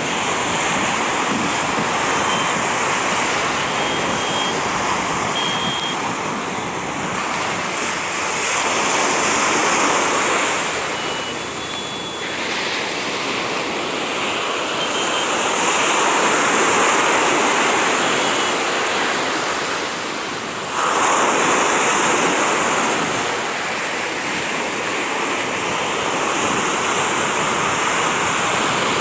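Sea surf, waves breaking and washing up the beach in a continuous rush that swells and eases every few seconds. One wave crashes in suddenly about two-thirds of the way through.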